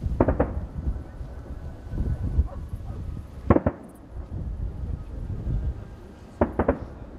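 Distant fireworks display: a low rumble with sharp bangs from bursting shells, a quick pair just after the start, a single loud one about three and a half seconds in, and another quick cluster near the end.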